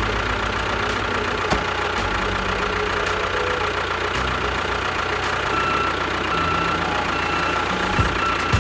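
An engine idling steadily with a low, even rumble, and a few faint steady tones over it.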